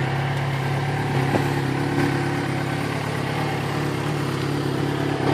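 Yamaha XJ6's inline-four engine idling steadily through its modified exhaust, a constant low note with no revving.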